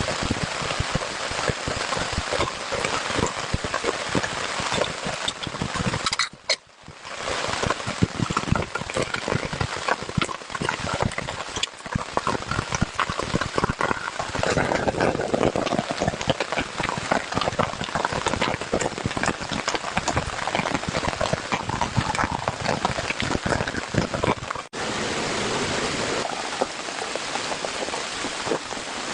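Heavy rain falling, a dense steady patter of drops. It breaks off for a moment about six seconds in and changes character abruptly later on, where the recording is cut.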